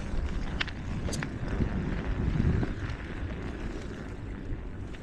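Wind buffeting the microphone during a bike ride, a dense low rumble, with two short sharp clicks about half a second and a second in.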